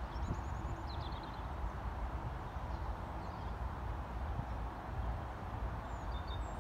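Small birds chirping in short high trills, a few times, over a steady low rumbling noise outdoors.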